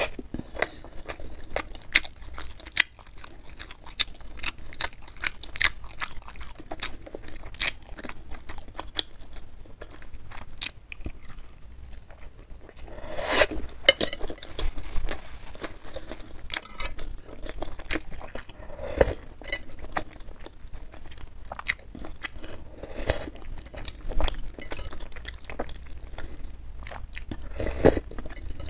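Close-miked wet chewing of beef meatballs and fatty beef bits, a steady run of small irregular mouth clicks. Now and then the fork and spoon touch the ceramic bowl, and a few louder sounds come about halfway through and near the end.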